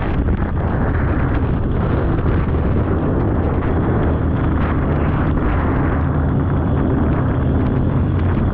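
Polaris snowmobile engine running steadily under way, a continuous low drone.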